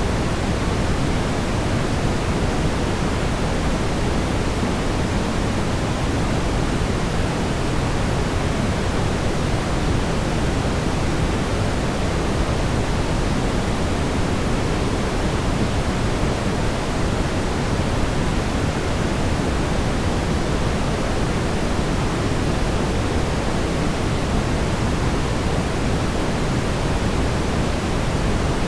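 Steady brown noise: an even, unchanging hiss weighted toward the low end, a deep rumble with little treble.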